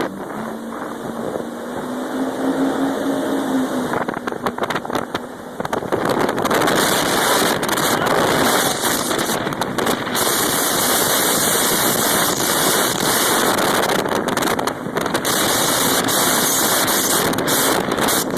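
Jet ski engine running, its pitch rising slightly over the first few seconds. After that it is buried under loud wind buffeting on the microphone and rushing water as the craft speeds along.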